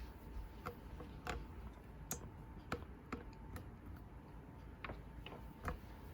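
Scattered light clicks and taps at irregular intervals, about a dozen in six seconds, over a faint steady hum: handling or footstep noise in a quiet room.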